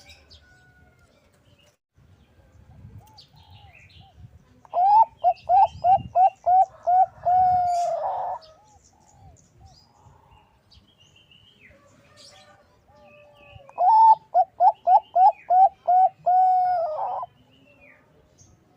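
Bangkok-strain zebra dove (perkutut) singing two cooing phrases about nine seconds apart. Each is a quick run of about seven short notes ending in a longer drawn-out note. Faint chirps of small birds sound in between.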